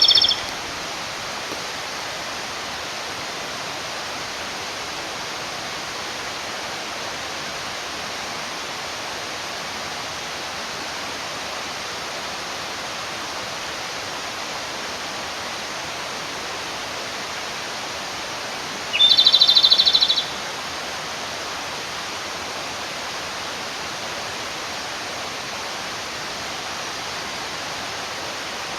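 Japanese robin singing once about nineteen seconds in: a single opening note, then a rapid rattling trill lasting about a second. The male is singing to call a female. A mountain stream rushes steadily throughout, and the tail of an earlier song ends at the very start.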